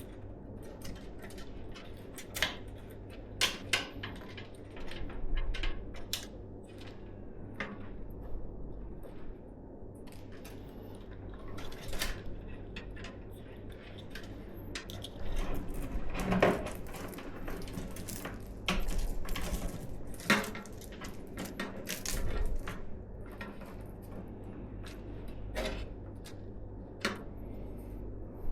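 Irregular clicks, taps and light clatters of computer parts and small hardware being handled and fitted during a PC build, with a run of louder knocks around the middle.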